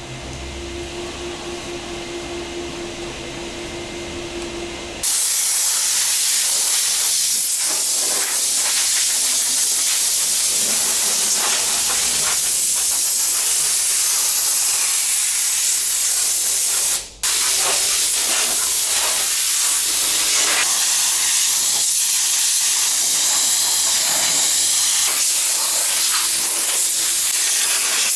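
A steady hum for about five seconds, then a car-wash pressure washer spraying water in a loud, even hiss as the engine bay is rinsed, cut off once briefly about halfway through.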